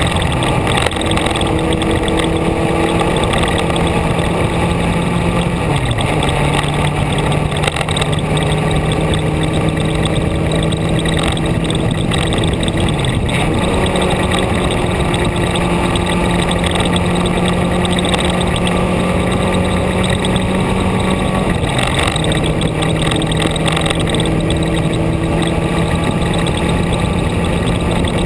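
Vehicle engine running steadily while driving along a road, with loud road and wind noise. The engine note drops sharply about 6, 13 and 22 seconds in, then slowly climbs back each time.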